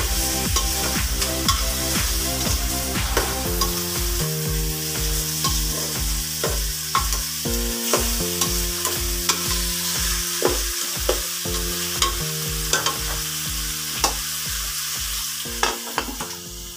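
Chicken pieces sizzling as they sauté in an aluminium pot, stirred with a metal spoon that clicks and scrapes against the pot, over background music with a steady beat. Near the end the lid goes on and the sizzle drops away.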